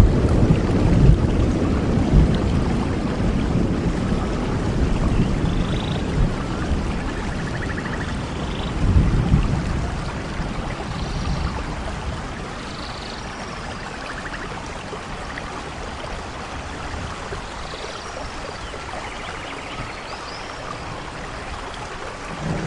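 Steady rain with a low rumble of thunder that fades over the first half, swelling briefly about nine seconds in, leaving quieter rain alone. A few faint, short high chirps sound over the rain.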